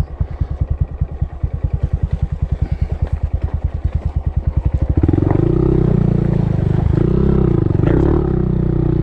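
A Honda Monkey's small single-cylinder four-stroke engine idles with an even, fast putter. About five seconds in it gets suddenly louder as the bike pulls away, the revs rising and falling as it rides off.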